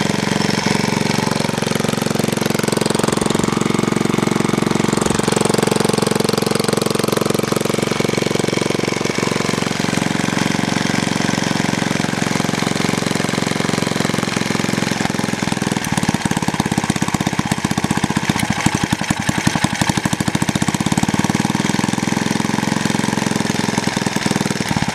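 Villiers Mark 15 single-cylinder overhead-valve stationary engine running steadily at a fast even beat. From about sixteen seconds in, the firing strokes turn more distinct and uneven.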